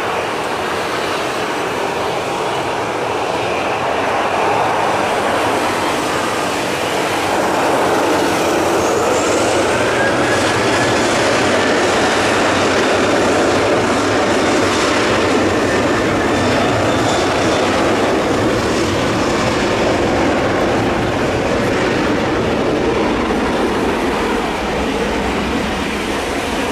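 Boeing 737-800's CFM56 turbofan jet engines at take-off power: a continuous roar that swells louder from about a quarter of the way in, with a faint rising whine around the middle, then eases near the end.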